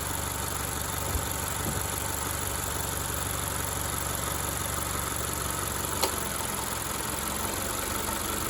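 Honda car engine idling steadily, with one sharp click about six seconds in, after which the engine note shifts slightly, as electrical loads such as the AC and headlights are switched on to make the alternator charge.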